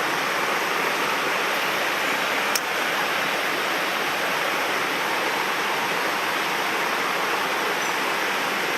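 Mountain stream water rushing steadily over rocks, a loud, even rushing noise, with a single faint click about two and a half seconds in.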